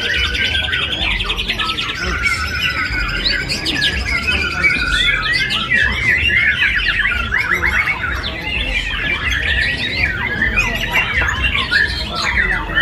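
Many caged songbirds singing at once: a dense, continuous chorus of overlapping chirps, whistles and rapid trills over a low steady rumble.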